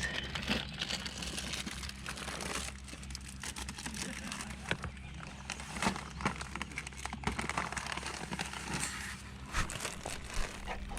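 Rustling and crinkling with many scattered small clicks and knocks, like gear being handled, over a steady low hum.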